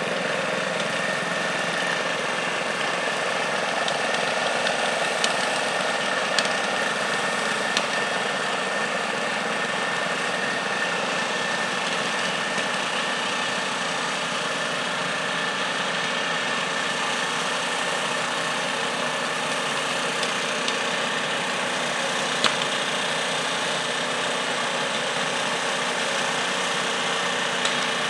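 Modified garden tractor engine running steadily at an even speed, with a few sharp clicks along the way.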